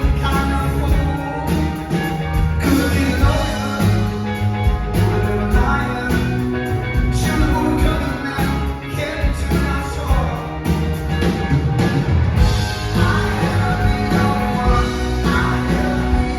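Live rock band playing loudly, with a full drum kit, bass and guitars, and some singing.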